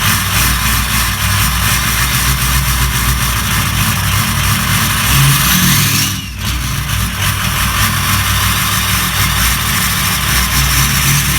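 Ford F-350's Power Stroke diesel engine running just after a cold start, with a brief rising whine and a short drop in loudness about six seconds in. The truck has a failing injector.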